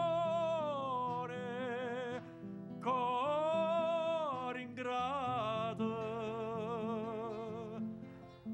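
A solo voice singing three long phrases of held notes with vibrato, over sustained accompanying chords.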